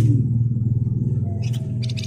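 A steady low mechanical hum, like a motor running. About one and a half seconds in, a rapid high chirping trill from a flamboyan songbird starts over it.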